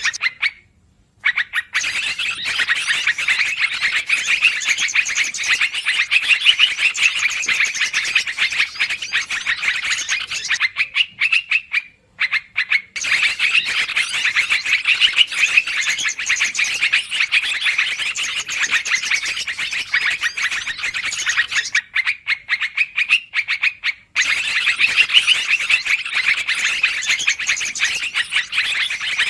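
Yellow-vented bulbuls (trucukan) calling noisily, a dense run of rapid chattering notes. It breaks off briefly three times: about a second in, around eleven to thirteen seconds in, and around twenty-two to twenty-four seconds in.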